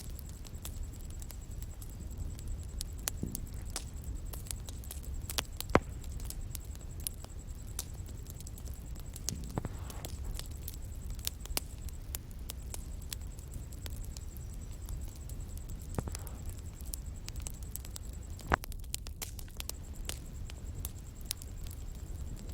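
Bonfire crackling: a steady stream of small sharp pops and snaps from burning wood over a low rumble of the flames, with two louder pops, one about six seconds in and one near the end.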